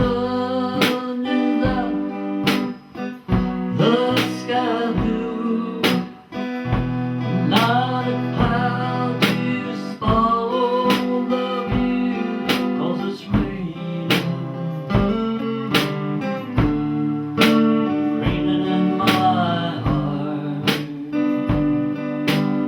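Guitar music with a steady beat of strokes a little under one a second, sustained low notes and a melody line whose pitch bends and slides.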